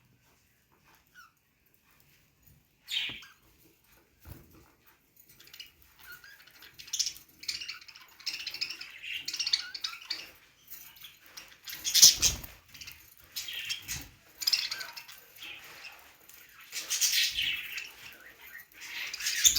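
Budgerigars chirping: a single short call about three seconds in, then from about six seconds a dense, continuous run of high chirps and chatter with several louder peaks.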